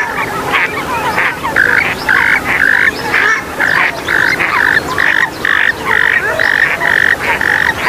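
Swamphens and moorhens calling: a run of short calls repeated about twice a second over a busy background of squeaky chirps from other birds.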